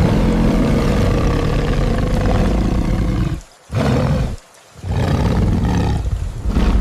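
A tiger roaring three times: a long, deep roar, a short one about three and a half seconds in, then another long roar near the end.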